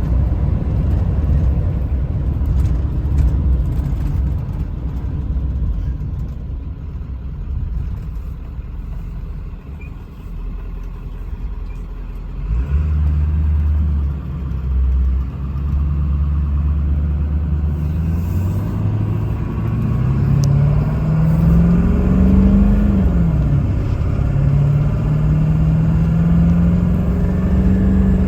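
1997 Ford F350's 7.3-litre Power Stroke V8 turbo diesel truck on the road. Engine and road rumble fades as the truck slows under hard braking, then settles to a steady low engine note. The note then climbs as the truck accelerates, drops once at an upshift about three-quarters of the way through, and climbs again.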